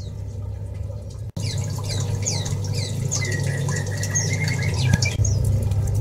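Small aviary birds chirping: a busy chatter of short, high, downward-sliding chirps that thickens after an abrupt cut a little over a second in, over a steady low hum.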